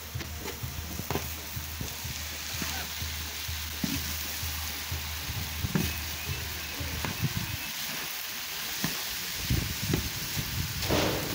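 Meat and strips of nopal cactus sizzling on a comal, a steady frying hiss, with a few short knocks and scrapes as the food is stirred.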